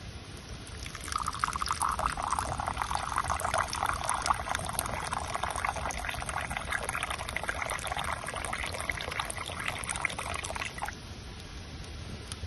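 Liquid being poured in a steady stream into a container. It starts about a second in and cuts off near the end.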